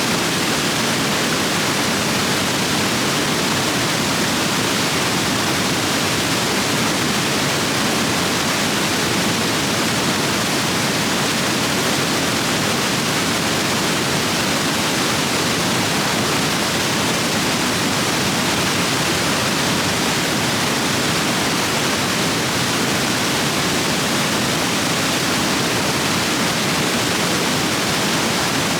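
Rain-swollen stream rapids rushing over rocks: a loud, steady roar of water.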